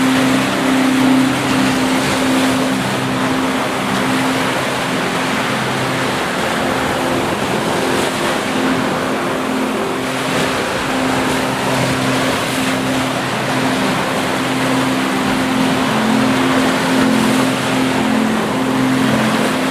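A steady, loud rushing noise, laid over ambient music that holds sustained low tones.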